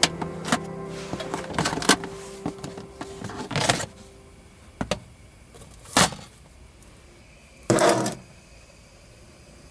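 Background music fading out over the first few seconds, with scattered clicks and knocks, then three short rustling or scraping noises a couple of seconds apart over a faint steady hiss.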